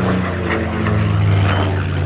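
Vintage propeller aircraft engine droning as the plane flies past, its pitch dropping about a second in.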